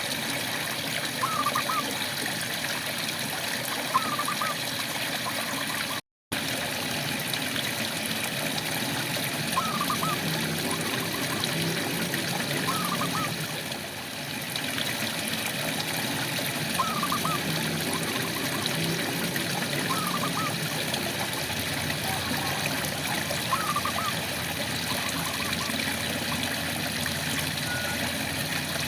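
Steady rain with frogs calling: short chirping calls repeat every couple of seconds over the even hiss of the rain. The sound cuts out completely for a moment about six seconds in.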